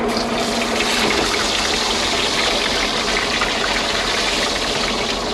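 Dried fish frying in hot oil in a wok, a loud steady sizzle that sets in sharply just after the start as the fish is turned. The boat's engine runs steadily underneath.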